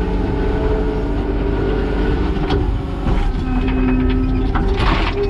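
Kubota SVL90-2 compact track loader's diesel engine running steadily under load as its tooth bucket scrapes the ground, with a couple of brief knocks, one near the middle and one near the end.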